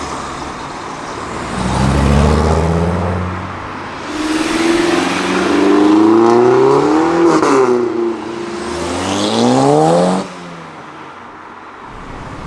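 A performance car's engine accelerating hard, its revs climbing in several pulls, each ending with the pitch falling back, before the sound cuts off abruptly about ten seconds in.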